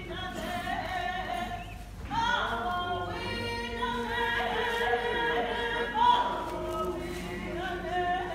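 A group of Shinnecock singers singing a song together, several voices at different pitches, with no clear drum beat.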